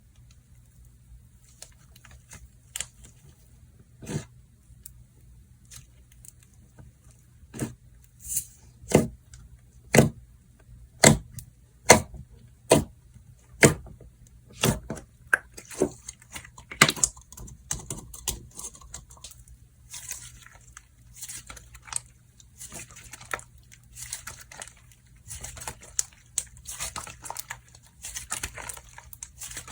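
Slime being pressed, folded and stretched by hand, giving a string of distinct popping clicks about once a second, then turning into a denser, quieter crackling.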